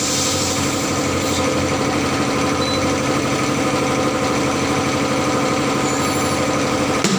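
An engine running steadily at idle, with one short knock near the end.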